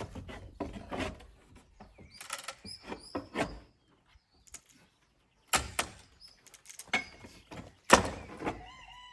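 Wooden cladding boards being pried and pulled off a timber wall: a run of irregular knocks, clatters and thunks of wood, with a short pause in the middle and the hardest knocks about five and a half and eight seconds in.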